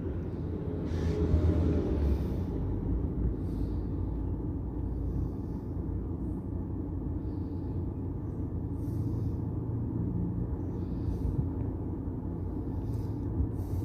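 Steady low rumble of a car running, heard from inside the cabin, with a few faint brief clicks and rustles.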